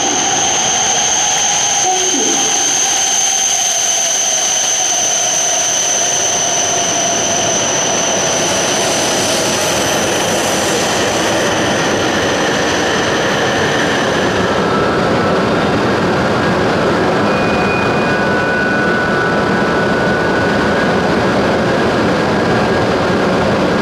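E7/W7-series Shinkansen train pulling into a platform and slowing, its motor whine falling in pitch over the first several seconds. A steady high whine carries on until it stops about 14 seconds in, leaving a steady rushing rumble from the train.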